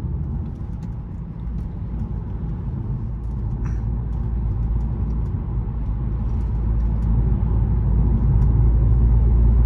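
Audi S3 8P's turbocharged 2.0-litre four-cylinder engine and road noise heard from inside the cabin while driving, a steady low hum that grows gradually louder.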